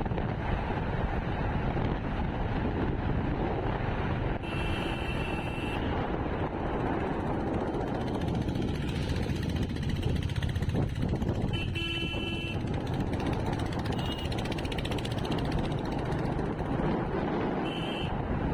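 Motorcycle riding on a highway: steady engine and road noise with wind on the microphone. Short horn beeps from traffic sound about four and a half seconds in and again around twelve seconds.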